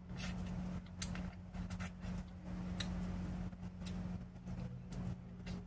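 Close-up mouth sounds of eating chicken wings: irregular clicks of chewing, lip smacks and finger licking, over a steady low hum.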